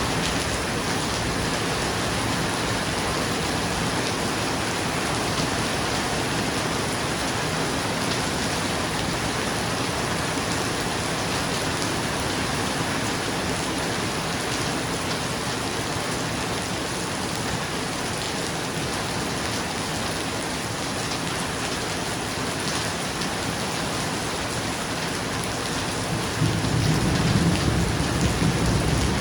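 Steady rain falling on a roof, with a low roll of thunder swelling near the end.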